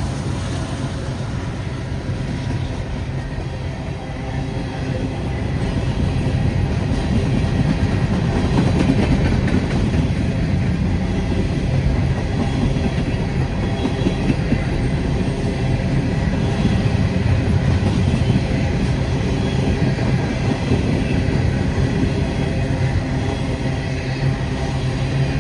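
Empty covered-hopper grain cars of a long CSX freight train rolling past close by: a steady rumble of steel wheels on the rails that grows a little louder after about five seconds.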